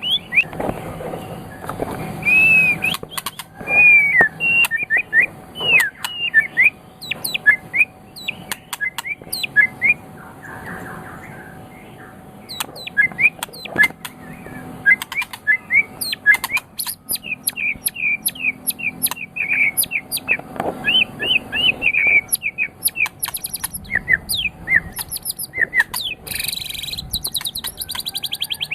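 White-rumped shama (murai batu) singing a long, varied song of rapid whistles, sweeping notes and sharp ticks, with short pauses between phrases.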